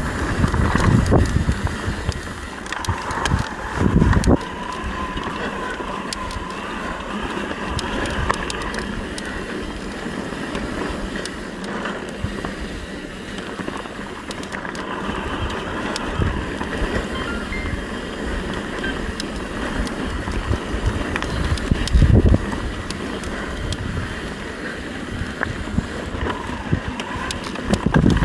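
Mountain bike riding over rough trail: wind buffeting the microphone over tyre noise, with rattles and knocks from the bike and a few heavier thumps, the biggest about four seconds in and near 22 seconds.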